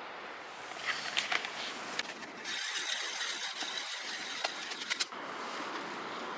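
Irregular sharp clicks and rustling between about one and five seconds in, over a steady background hiss.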